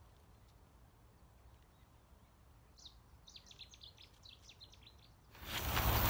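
Faint calls of a small bird: a quick run of short, high chirps starting about three seconds in and lasting about two seconds. Near the end a sudden loud rush of noise cuts in.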